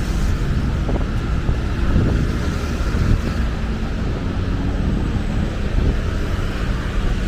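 Steady rumble of busy city road traffic, with some wind on the microphone.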